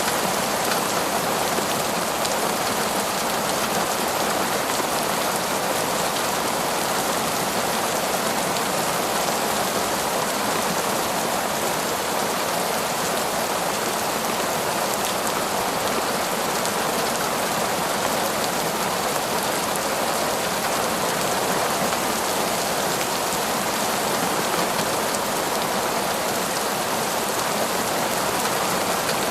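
Heavy, torrential rain falling steadily, a dense even hiss of drops with no let-up or thunder.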